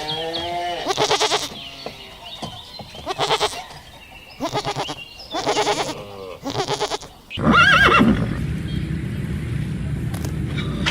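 Goats bleating: about six quavering calls, one after another. About seven seconds in, the sound cuts to a steady background noise with one short, higher call.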